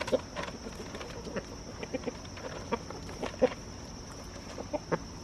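Backyard chickens clucking, with short scattered clucks throughout, over a steady high-pitched drone.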